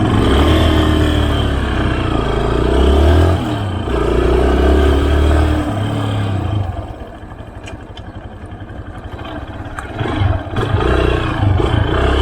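A motorcycle engine revving and pulling away, its pitch rising with each burst of throttle. About seven seconds in it drops to a quieter, steadier note, then grows louder again near the end.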